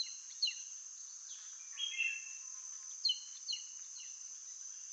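Steady high-pitched insect drone with a bird's short, quick falling chirps heard in small groups: near the start, around two seconds in, and twice about three seconds in.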